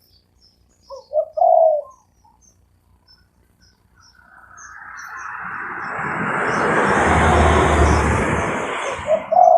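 Spotted doves cooing: a short phrase of low coos about a second in and another at the very end, with small birds chirping faintly and high throughout. In between, a rushing noise with a low rumble builds and fades over about five seconds.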